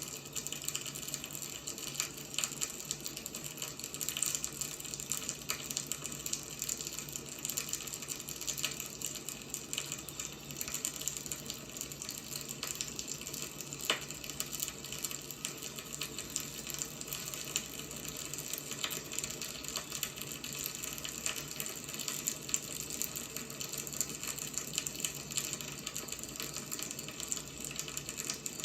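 Wood fire burning: a steady hiss with frequent small crackles and pops, one sharper pop about halfway through.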